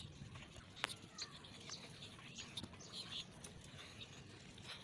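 Faint birds chirping, with scattered light clicks.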